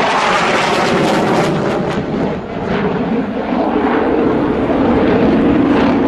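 Jet noise from a JF-17 Thunder fighter's Klimov RD-93 afterburning turbofan in flight: a loud, dense rush whose pitch slowly falls.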